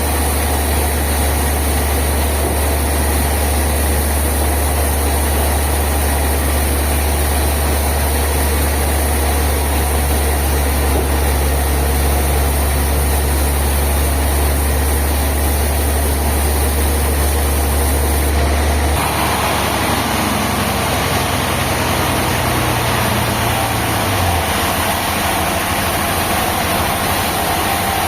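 Heavy machinery engine running steadily with a deep, even hum. About two-thirds of the way through, the sound changes abruptly to a different, noisier machine sound, and a low tone in it drops away a few seconds later.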